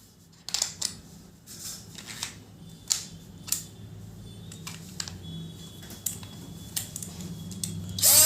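A series of small sharp clicks and snaps, irregularly spaced, from the parts of a battery-operated craniotomy drill set being handled, over a faint steady hum. Near the end a sudden louder sound comes in, rising in pitch.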